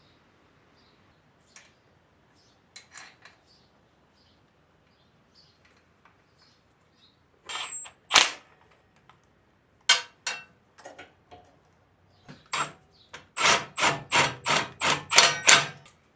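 Hand tools working on a small engine: a series of sharp metallic clicks and knocks, sparse at first, with one louder knock about halfway and a quick run of about ten clicks at roughly four a second near the end.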